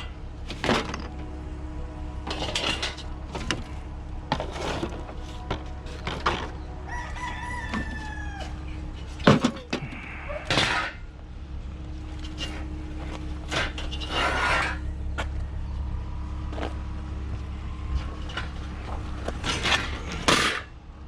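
A rooster crowing once, about seven seconds in, one long call that falls at the end. Around it are repeated sharp knocks and clatters of things being handled, over a steady low hum.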